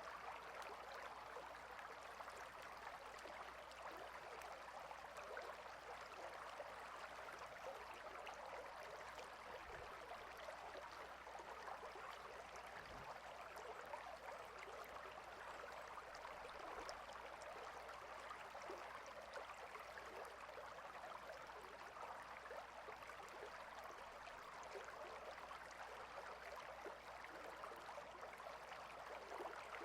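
A small stream of running water babbling and trickling in a steady, faint wash with fine splashing texture.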